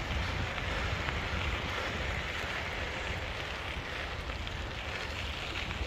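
Steady rushing noise with a strong low rumble and no distinct events.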